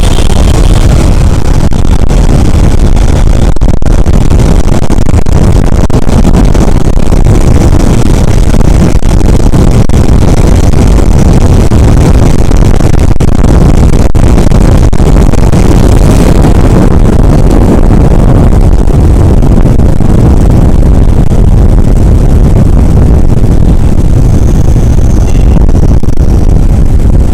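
Wind blasting over the microphone of a moving motorcycle: a loud, steady low rumble, with the bike's engine and road noise under it.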